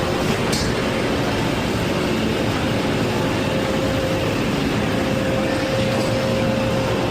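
Steady rushing ventilation and air-handling noise of a large indoor food court, with a faint steady hum in the second half and a brief sharp tick about half a second in.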